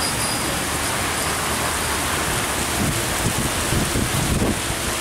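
Heavy rain falling steadily, with vehicles passing on the wet road. Near the end an engine note rises briefly.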